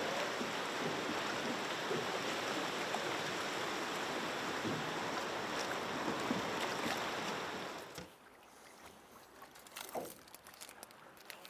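Rushing river water, a steady hiss of moving current, which drops away abruptly about eight seconds in, leaving a quieter background with a few light knocks.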